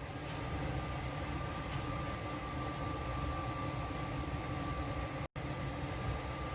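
Steady low rumble and hiss of a covered pot steaming on the stove, with a faint constant whine above it; the sound drops out for an instant about five seconds in.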